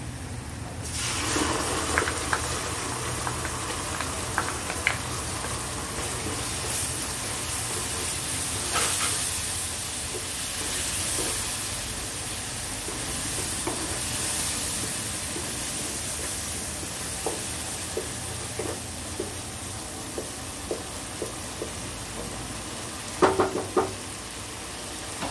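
Onions and tomato paste sizzling in hot oil in a frying pan, stirred with a wooden spatula that clicks against the pan now and then. The sizzle picks up about a second in, and there is a quick run of louder knocks from the spatula near the end.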